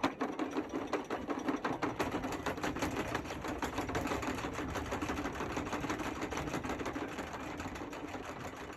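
Anchor chain rattling out over an electric anchor windlass, a fast run of clicks over a steady motor hum, as a Spade anchor is lowered.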